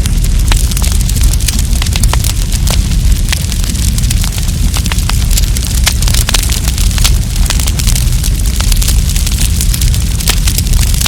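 Wood campfire burning, crackling with frequent sharp pops over a steady low rumble.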